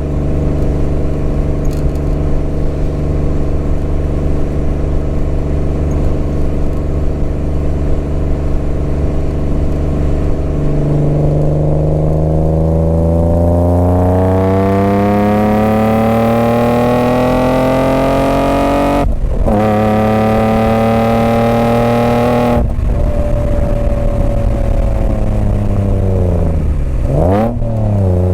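BMW M50B25 straight-six through stainless headers and a 3-inch stainless exhaust with small silencers. It holds a steady note for about ten seconds, then the revs climb for several seconds. The sound cuts out briefly twice as the throttle is lifted, the revs fall away, and there is a quick rev blip near the end.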